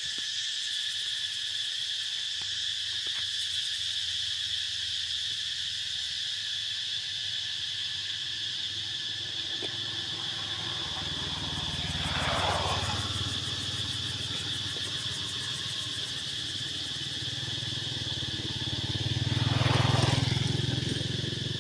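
Steady, high drone of insects, with two motor vehicles passing by: one a little past halfway, and a louder one near the end, each building up and fading away over a few seconds.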